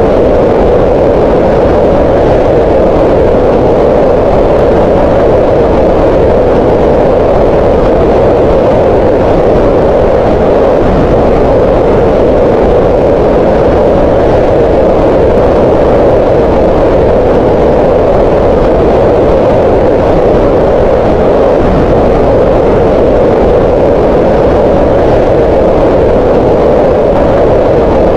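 Green noise: steady, loud noise with its energy strongest in a band around 500 Hz, softer in the lows and fading off in the highs, without change or events.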